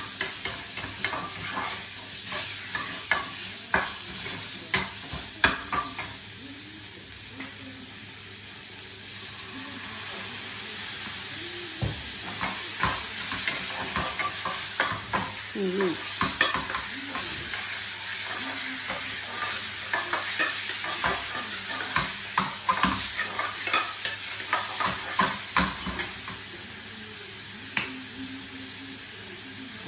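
Beef sizzling as it fries in a pan on a portable gas stove, with long cooking chopsticks clicking and scraping against the pan as it is stirred. The stirring clicks thin out near the end.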